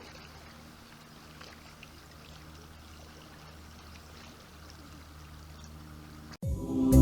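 Faint, steady rush of flowing river water on the Lower Salt River. About six seconds in it cuts off suddenly and loud, gentle instrumental music begins.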